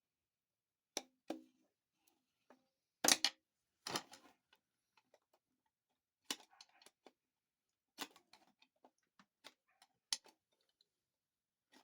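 Irregular metallic clicks and scrapes as a screwdriver works a clutch snap ring out of a TH400 transmission case. The loudest clinks come about three to four seconds in.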